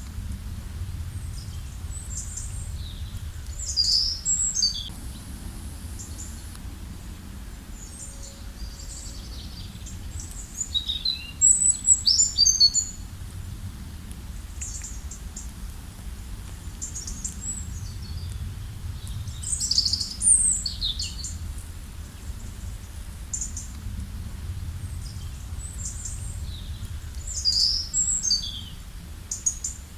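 Songbirds singing short, high, chirping phrases, one burst every several seconds, over a steady low rush of river water.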